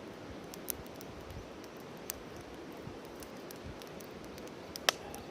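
Wood campfire crackling: scattered sharp pops and snaps from the burning firewood over a low steady background, with the loudest pop about five seconds in.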